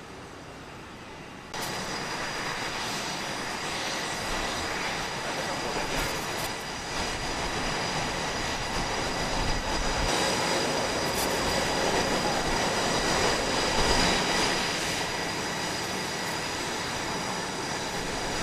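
Jet aircraft engines: a loud rushing noise with steady high-pitched whining tones. It starts abruptly about a second and a half in and swells slightly toward the middle.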